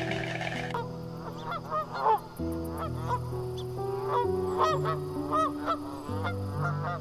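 Birds honking: many short, rising-and-falling calls in quick succession, overlapping as from several birds, starting about a second in, over background music with sustained notes.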